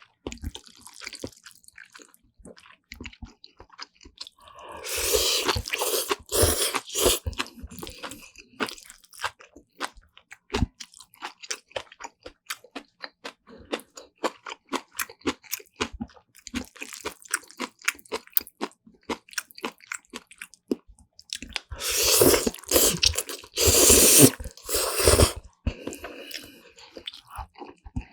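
Close-miked eating of instant black bean noodles with side dishes such as kimchi: a steady run of wet chewing clicks and crunches. There are two louder, longer stretches, about five seconds in and again around twenty-two seconds.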